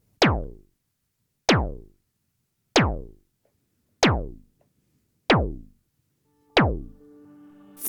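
Moog Werkstatt-01 analog synthesizer patched as a kick drum: six evenly spaced kicks, about one every 1.3 seconds. The LFO's square wave clocks them, and each is a sharp attack whose pitch drops quickly into deep bass as the envelope sweeps the oscillator's pitch. A faint steady tone comes in near the end.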